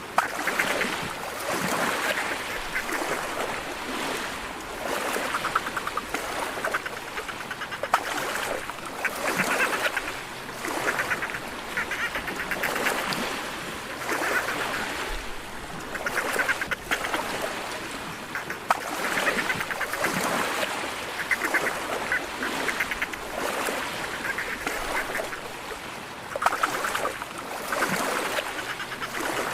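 Dolphins making rapid pulsed squawking and chattering calls, in repeated bouts every second or two.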